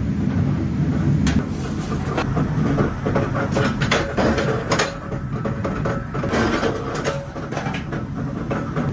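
Workshop machinery running with a steady low rumble, under irregular sharp metallic knocks and clanks.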